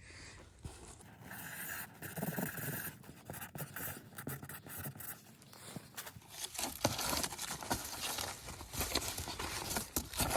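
Close handling noise: scraping and rustling with many small clicks and knocks.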